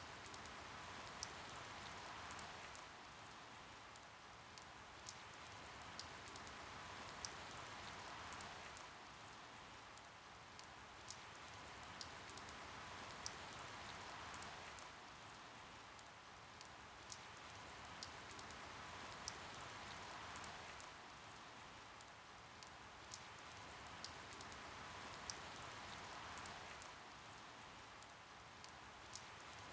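Rain falling: a steady hiss that swells and eases every six seconds or so, with single drops ticking sharply throughout.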